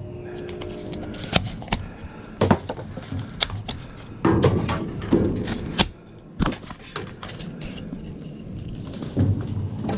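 Irregular knocks, clunks and rattles of junk being shifted and pulled out of a dumpster, with a few heavier thuds.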